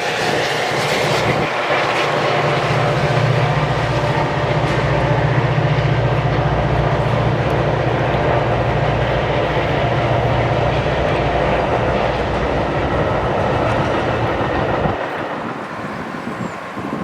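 A diesel-hauled train passing close by: the locomotive engines' steady low drone over wheel and rail noise. Near the end the engine drone drops away, leaving quieter rolling noise from the cars.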